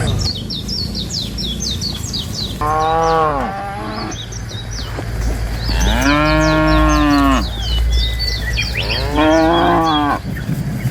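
Cows mooing: three long calls about three seconds apart, each rising then falling in pitch. High chirps sound throughout behind them.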